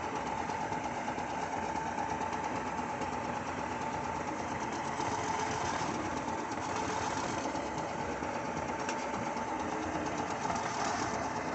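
Heavy diesel engine running steadily, with a fast mechanical clatter and a steady whine over it.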